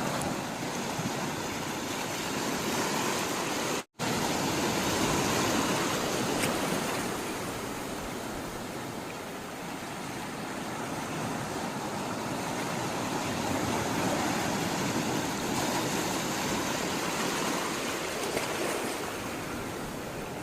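Sea water rushing and washing: a steady noise that swells and eases slowly, cutting out for an instant about four seconds in.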